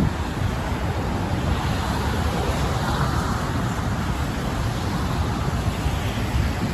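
Wind buffeting the microphone in low, gusty rumbles, over a steady wash of traffic noise from the bridge roadway.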